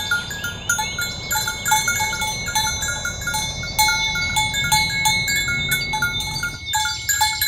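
Bells worn by cattle clanking irregularly, several short ringing notes a second, as the cows walk along. A steady high-pitched whine runs underneath.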